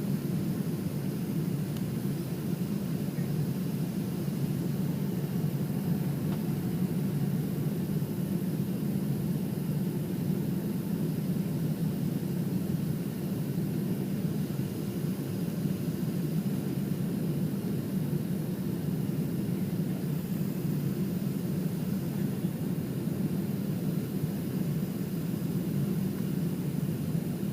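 Steady cabin noise of a Boeing 767 airliner in flight: an even low rumble of engines and rushing air, heard from inside the passenger cabin.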